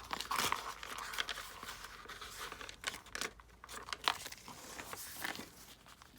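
Scrapbook paper being handled, with irregular rustling, crinkling and small clicks and a sharper click about four seconds in.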